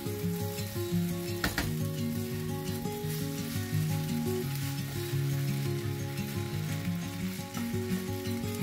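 Rice and chopped tomato sizzling in oil in a frying pan while a wooden spatula stirs them, with one sharp knock about a second and a half in. Background music plays underneath.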